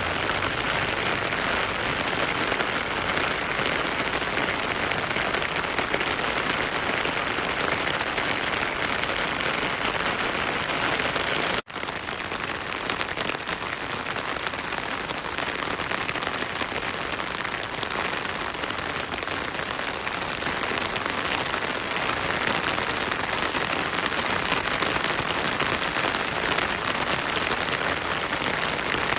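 Heavy rain falling steadily as a dense, even hiss. It cuts out for an instant about 12 seconds in and resumes at once with slightly less low rumble.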